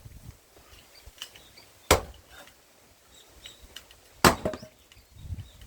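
Two blows of a large forged splitting axe into a seasoned pine round, about two and a half seconds apart, each a sharp crack of steel biting into wood; the second is the louder, with a brief ring after it.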